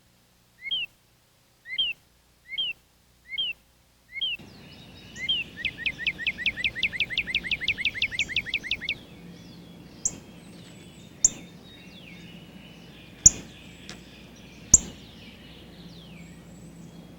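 Songbirds calling: a series of separate rising chirps, then, after a change in background, a rapid trill lasting about four seconds and a few sharp, loud chips.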